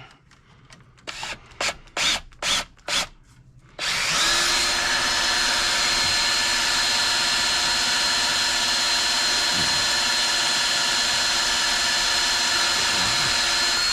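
Battery-powered cordless drill driving a wire-stripping machine, running at a steady, constant speed with a high whine for about ten seconds. Before it starts there are several short knocks.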